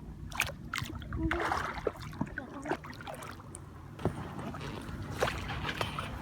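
A boat being paddled: water splashes and a few sharp knocks against the boat over a low steady rumble.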